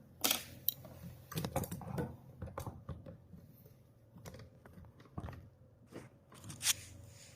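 Irregular clicks, taps and short scrapes of hands handling and cleaning plastic sewing machine parts. The sharpest click comes just after the start, and another comes near the end.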